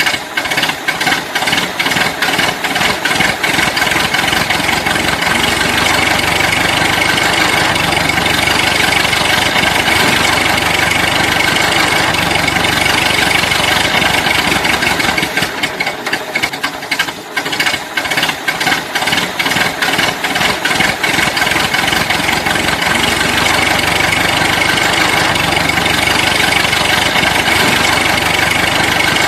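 Toy vehicle's engine sound, a steady engine noise with rapid knocking clicks, dipping briefly at about 15 to 18 seconds.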